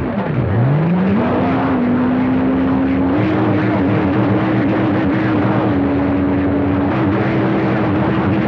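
CB radio receiver hiss with a whistling heterodyne tone from an unmodulated carrier keyed on the channel. The tone slides up in pitch during the first second, then holds steady with small jumps in pitch.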